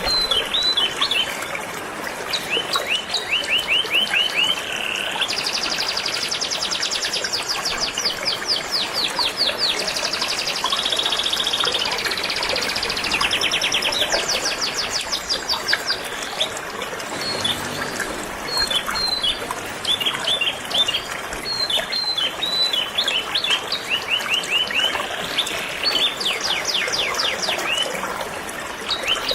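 Canary singing a long, varied song of rapid trills and repeated chirps, over the steady rush of flowing river water.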